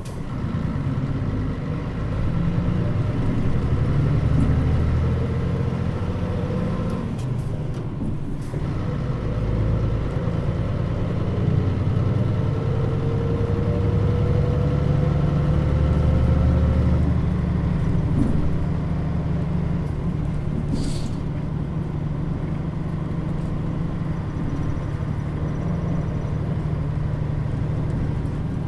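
Mitsubishi Fuso Aero Star city bus (KL-MP35JM, Nishi Nippon body) driving: a steady diesel engine and drivetrain hum with road noise, a whine slowly rising in pitch through the middle, and a short click later on.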